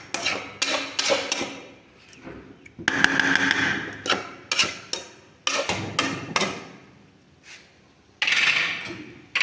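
A run of sharp knocks in kitchen work, about two or three a second with short pauses, and two longer scraping rushes, one about three seconds in and one near the end.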